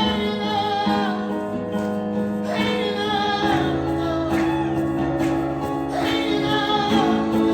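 Live music: singing voices in long phrases over sustained instrumental accompaniment, as a song's refrain continues.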